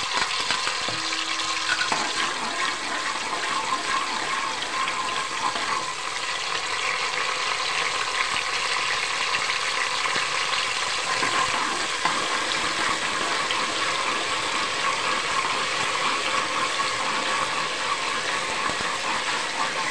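Ginger-garlic paste frying in hot oil with whole spices in an aluminium pot, a steady sizzle as it is stirred in with a metal slotted spoon.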